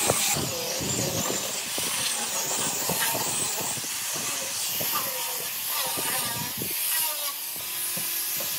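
Steady hiss of compressed air, of the kind a spray gun or air blow gun makes in a workshop, with scattered light knocks underneath.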